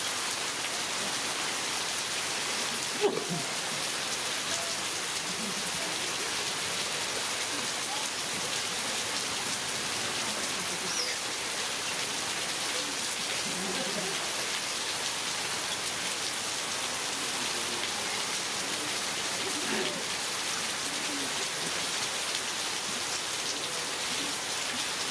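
Heavy rain falling steadily, hissing on surfaces. There is a single sharp knock about three seconds in.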